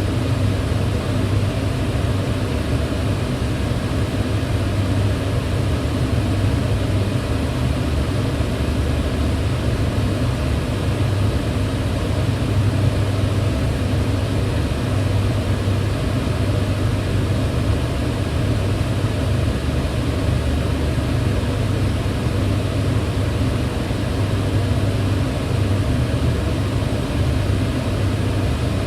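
Kitchen range hood extractor fan running steadily: a constant low hum with even airy noise above it.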